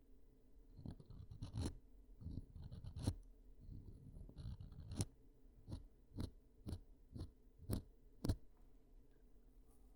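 Ear-cleaning ASMR sounds made close to a microphone: soft scraping and rubbing, then a run of sharp clicks and scratches about every half second in the second half.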